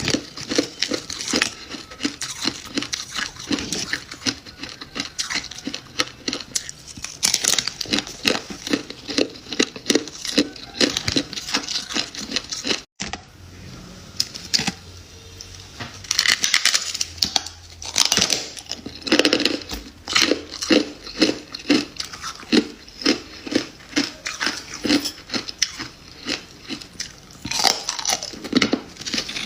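Freezer frost being bitten and chewed close to the microphone: a dense, continuous run of crisp crunches and crackles, broken by a very brief silent gap about 13 seconds in.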